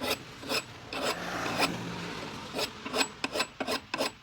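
Coarse hand file rasping across the steel edge of an axe blade held in a vise, in repeated strokes filed in one direction. One longer stroke about a second in, then quicker short strokes near the end.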